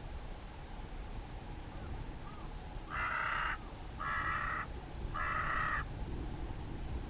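A crow cawing three times, each caw harsh and about two-thirds of a second long, about a second apart, in the middle of the stretch.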